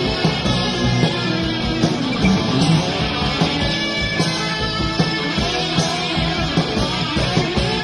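Rock music with electric guitars and a steady drum beat, an instrumental passage with no singing.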